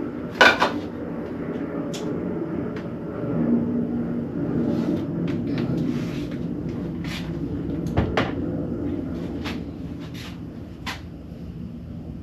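Kitchen clatter: a series of sharp knocks and clicks from cookware and cupboards being handled, the loudest about half a second in, over a steady low hum.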